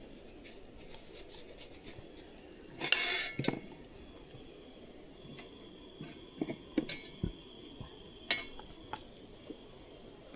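Camp tableware being handled: a short scraping rattle about three seconds in, then several sharp clinks, one ringing briefly.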